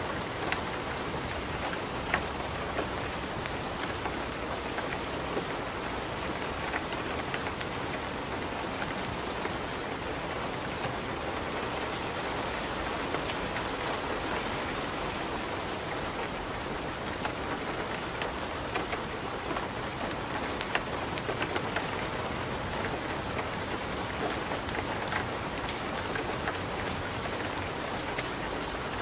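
Wood fire crackling in a fireplace: a steady dense hiss with sharp pops scattered through it.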